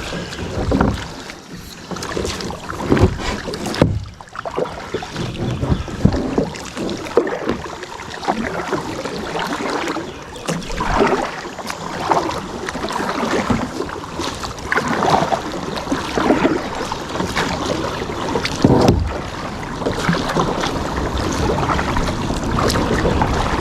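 Kayak paddle strokes in water, the blades splashing and dripping in an irregular rhythm.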